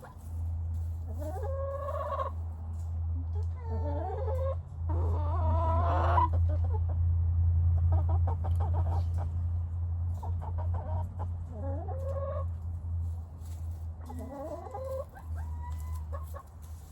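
Chicken clucking, with about six drawn-out calls that rise in pitch, over a steady low hum.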